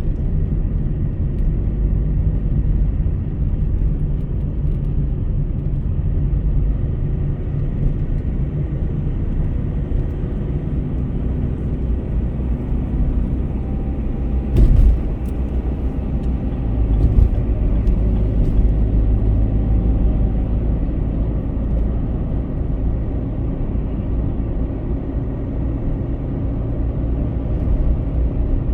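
Steady low rumble of a car driving on a highway, with two short thumps about halfway through, a couple of seconds apart.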